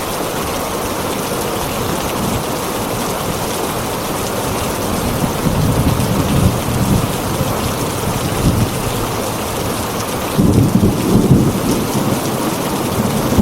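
Heavy rain pattering steadily on a tin roof, with low rolls of thunder swelling about five seconds in and again about ten seconds in.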